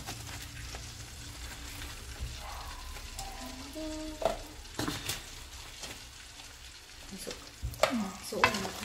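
Small talangka crabs frying in hot oil in a large pan, a steady sizzle, with a few sharp scrapes of a spatula stirring them, around the middle and again near the end.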